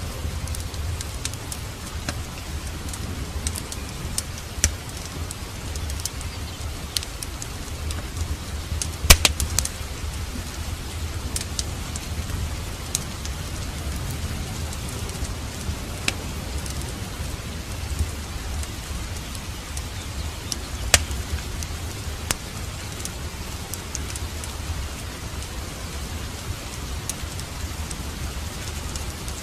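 Steady rain mixed with a crackling fireplace fire: a continuous hiss over a low rumble, with scattered sharp pops and a quick cluster of them about nine seconds in.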